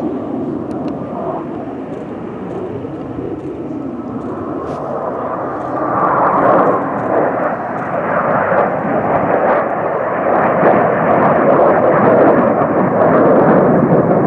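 Airplane engine noise as an aircraft flies over, a steady rushing drone that grows louder about six seconds in and stays loud.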